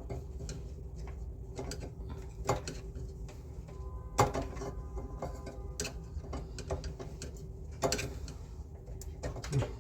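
Scattered sharp clicks and light knocks at irregular intervals from hand work on a split air conditioner's indoor unit during a fan-motor replacement, over a steady low hum.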